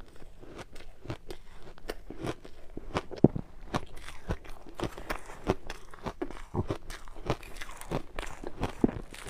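Ice being bitten and chewed close to the microphone: a run of sharp, irregular crunches and cracks, a few each second, with one louder crack about three seconds in.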